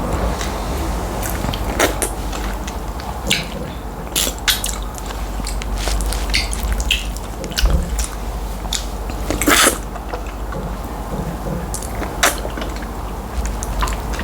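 Close-miked eating of tilapia fish in light soup with starch: chewing and biting noises, with irregular short mouth clicks, the longest about nine and a half seconds in, over a steady low hum.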